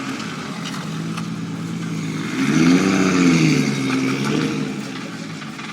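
Car engine running steadily, then revved once about two and a half seconds in, its pitch rising and falling back over about two seconds.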